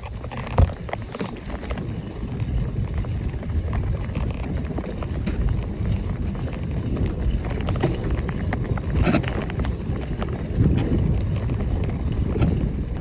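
Wind buffeting the microphone of a camera riding along on a moving bicycle, a steady low rumble with road noise, and a sharp knock about half a second in.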